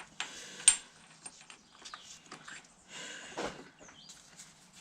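Metal parts being handled on a workbench: two short spells of scraping and rattling, with a sharp metallic clink under a second in.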